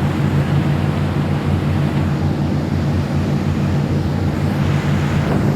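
Boat motor running steadily at speed, with the rush of wind and water over it.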